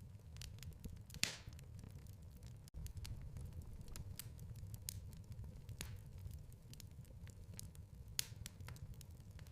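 Wood fire crackling in a fireplace: a steady low rumble of burning with irregular sharp pops and snaps, two louder pops about a second in and near the end.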